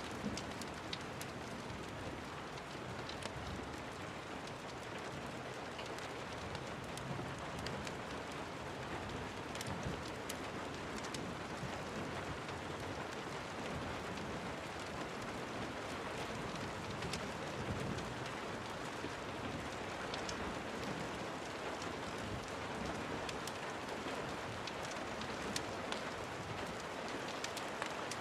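Steady rain falling, a continuous hiss with scattered sharp ticks throughout.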